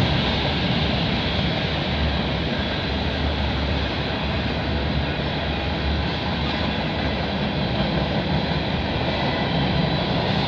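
Freight cars of a CN freight train rolling past, a steady rumble of steel wheels on the rails.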